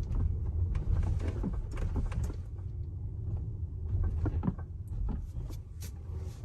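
Inside the cabin of a Tesla Model X crossing speed bumps: a steady low road rumble with several short knocks and clunks scattered through it. These are the driver-side front suspension clunks that the owner thinks come from something loose, like a nut or bolt.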